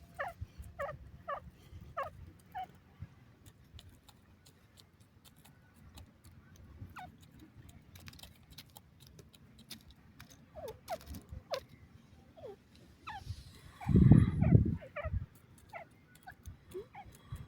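Teetar (francolin) calling: short, sharply falling notes, several in quick succession at the start and again later. There are scattered clicks, and a loud low rumble about 14 seconds in.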